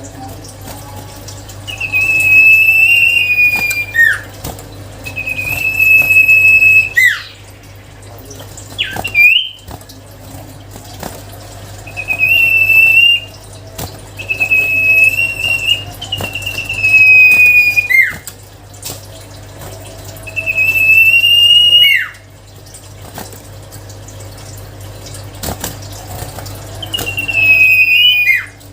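Common iora (cipoh) singing: long, high, level whistled notes, each lasting a second or two and ending in a quick downward slur, repeated about every two to four seconds. A steady low hum runs underneath.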